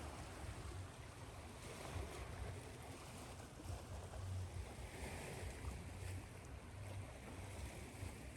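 Ocean surf washing continuously, blended with white-noise hiss, over a fluctuating low rumble.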